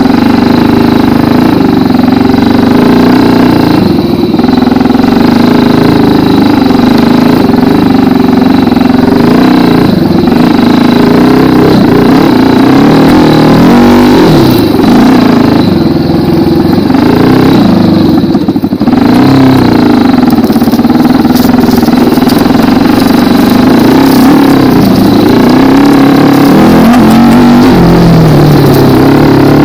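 Racer 250 K2 dirt bike's single-cylinder four-stroke 172FMM engine running loud under riding load, its pitch rising and falling with the throttle, with a few short drops in revs.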